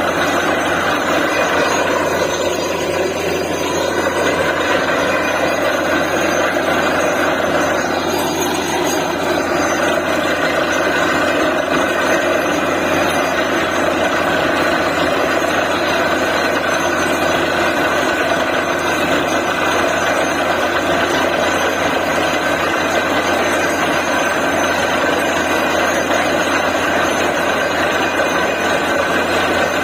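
Truck-mounted DTH borewell drilling rig running steadily, its heavy engine giving a continuous, unchanging drone.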